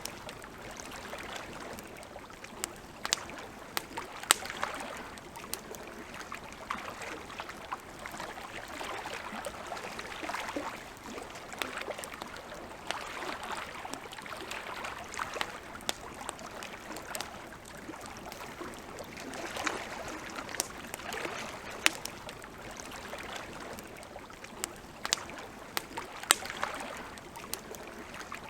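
Wood campfire crackling, with irregular sharp pops scattered throughout, over a soft wash of lake water lapping that swells and eases every few seconds.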